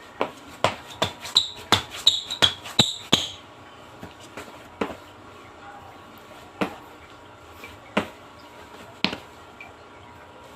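A series of sharp knocks or taps, quick and irregular for about three seconds with short high squeaks among them, then a few single knocks spaced a second or two apart.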